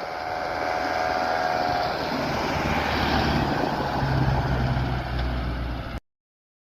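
A vehicle engine running with road noise, a steady droning hum with a higher whine over it, cutting off suddenly near the end.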